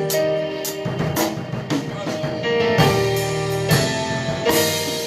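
Live worship band music: drum kit hits and cymbals over held keyboard and guitar chords.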